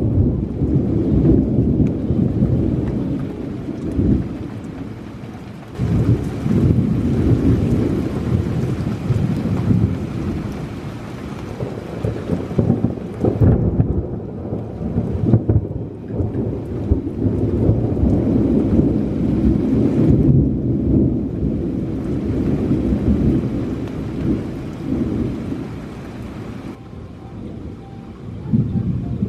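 Thunderstorm: heavy rain with thunder rumbling deeply, swelling and dying away several times.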